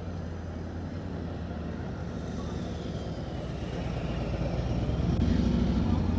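Motor vehicle engine and road noise: a steady low hum that grows louder over the last couple of seconds.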